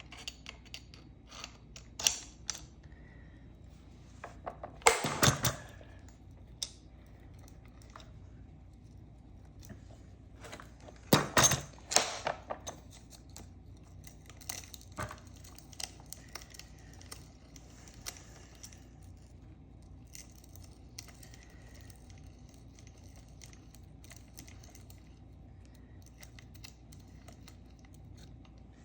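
Chainsaw chain being sharpened by hand, with no motor running: small metallic clicks and light rattles of the chain. Louder short scraping strokes come about five seconds in and again around eleven to twelve seconds.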